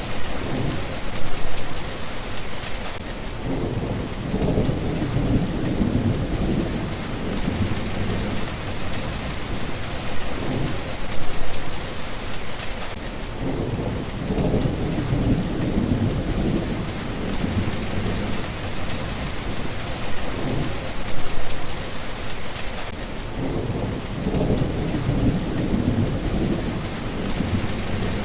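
Steady rain, with low rumbling swells rising and fading about every ten seconds.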